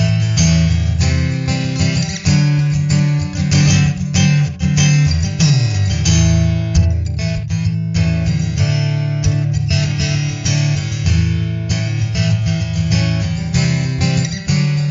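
Instrumental break of a country-rock song: strummed and picked guitars over a steady low end, with no singing.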